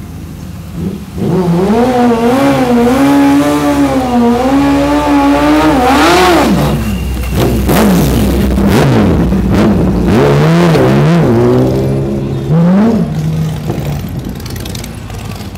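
A car engine revving loudly as it drives off. It holds a wavering note at first, climbs sharply about six seconds in, then revs up and down several times before fading away near the end.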